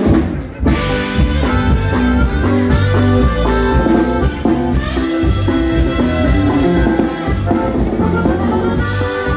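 Norteño band with saxophone playing an instrumental passage: a melodic line over bass and drums on a steady beat.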